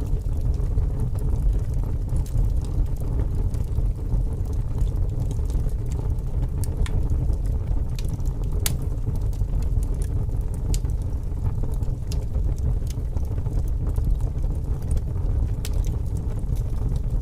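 Wood fire crackling, with irregular sharp pops of burning logs over a steady low rumble of strong wind; the loudest pop comes about halfway through.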